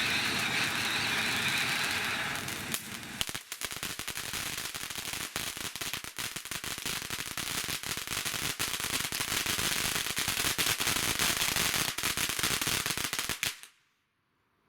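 Firework fountain spraying with a steady hiss, then crackling densely with rapid pops for about ten seconds before it burns out abruptly near the end.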